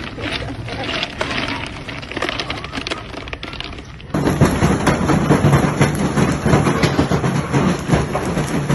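Large hailstones pelting hard surfaces: a dense, irregular clatter of impacts that turns louder and heavier about four seconds in.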